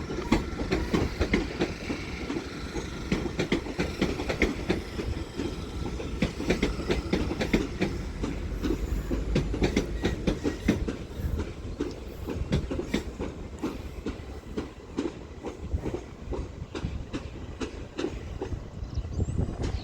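Double-headed Class 387 Electrostar electric multiple units pulling out of the station, their wheels clattering over rail joints and pointwork in a dense run of clicks over a steady low rumble, with a faint whine in the first few seconds.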